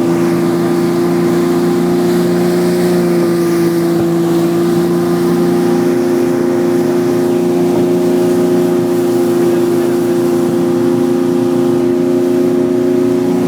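Motorboat engine running steadily at an even pitch, with a faint hiss of noise above it.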